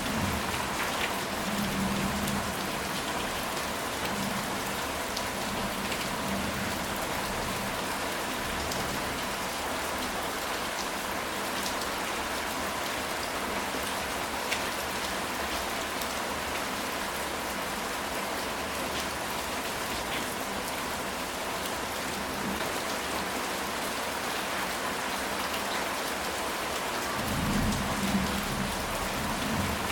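Steady rain falling on a ceramic tile roof: an even hiss of drops with scattered sharper drip ticks. A low rumble of thunder swells near the end.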